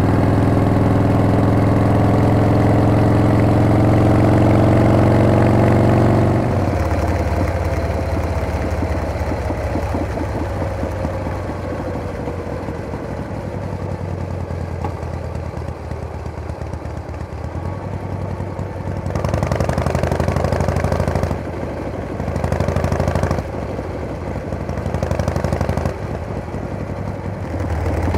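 Harley-Davidson Panhead V-twin motorcycle engine running at speed. About six seconds in the throttle closes and the engine slows, its pitch falling away to a low, pulsing run. It picks up again in several short spells of throttle, with drops between them, toward the end.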